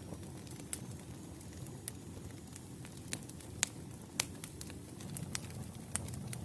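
Wood campfire burning: a steady low rumble of flames with scattered sharp crackles and pops from the firewood, the loudest pops a little past halfway.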